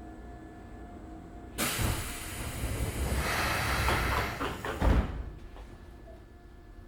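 Pneumatic sliding doors of a Keisei 3500-series commuter car closing: a loud rush of air about a second and a half in, ending in a heavy thump as the doors meet a few seconds later.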